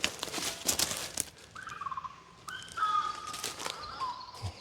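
A bird's whistled calls: a falling whistle, then several held and sliding notes. Footsteps crunch through leaf litter and undergrowth in the first second and again near the end.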